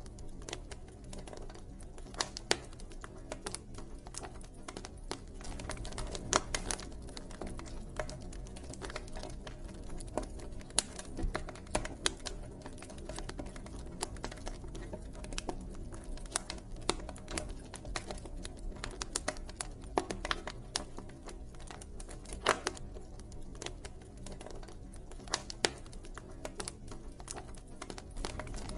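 Wood campfire crackling: irregular sharp pops and snaps, several a second, some louder than the rest, over the steady low rumble of the burning fire.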